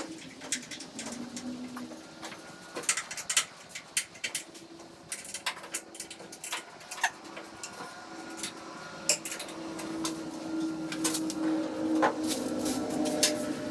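Irregular sharp clicks and taps, with a low steady hum that grows louder in the second half.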